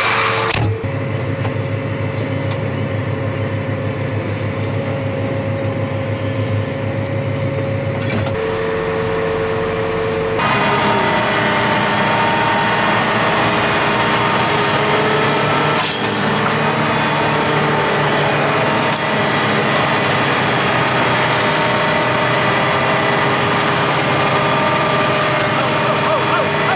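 Pickup truck engine running under load in four-wheel drive as it works its way out of soft, wet ground, the pitch shifting about 8 seconds in and the engine getting louder about 10 seconds in.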